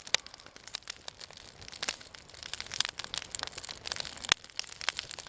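Burning wood in a campfire crackling, with irregular sharp snaps and pops over a soft hiss.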